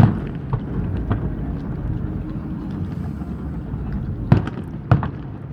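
Fireworks shells bursting: a few lighter pops around the start and about a second in, then two sharp bangs about half a second apart near the end, over a steady low rumble.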